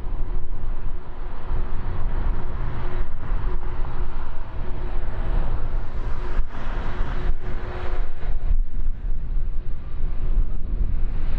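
Jet engines of a Boeing 767-300ER freighter running: a loud, steady low rumble with a faint steady whine over it.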